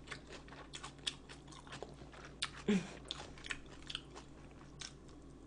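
Close-up mouth sounds of someone chewing and biting food, with small irregular wet clicks and light crunches. A brief hum from the eater about two and a half seconds in.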